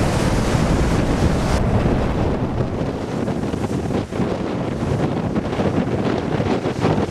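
Storm wind buffeting the microphone over surf breaking on the shore, a dense, steady rush of noise whose upper hiss eases about a second and a half in.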